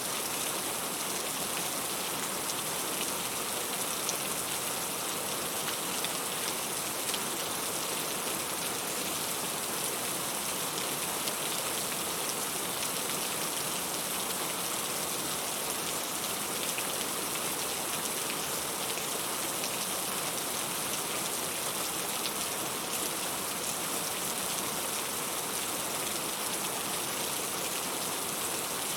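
Steady rain falling, a dense even hiss of many small drops with fine pattering ticks.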